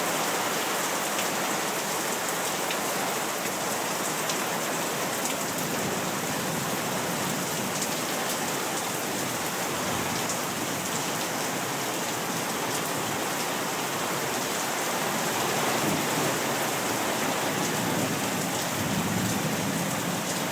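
Heavy rain falling steadily in a downpour, an even hiss of drops on surfaces.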